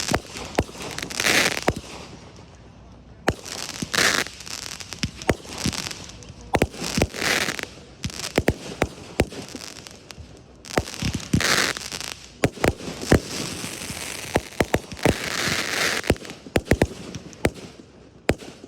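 Fireworks display: many sharp bangs of shells bursting, some in quick clusters, with several longer rushes of noise about a second each.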